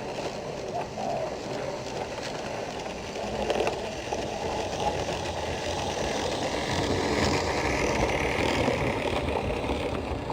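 Garden-scale model train running along the track: a steady rolling rumble that grows a little louder in the second half.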